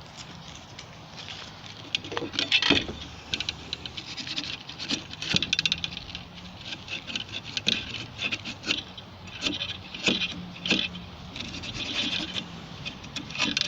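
Abrasive scrubbing on a gas water heater's thermocouple, cleaning it by hand: uneven bursts of scratchy strokes with a few sharp clicks, so the pilot will stay lit.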